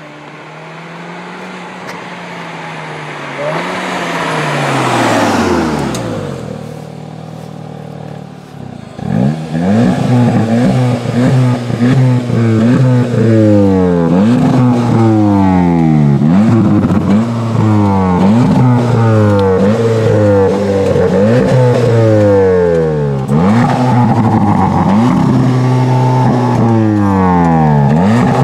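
SEAT Leon Cupra's 2.0-litre turbocharged four-cylinder. The car drives up with its engine note rising and then falling away. From about a third of the way in it is revved while standing still, heard close at the tailpipes: short revs one after another, each climbing and dropping back, about a dozen in all.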